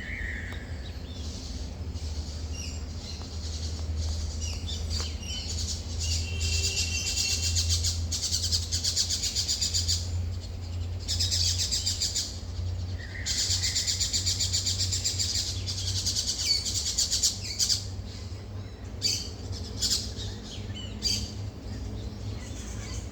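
Small birds singing in fast, high-pitched trills that come in bursts of a few seconds, with a couple of lower slurred notes, over a steady low hum.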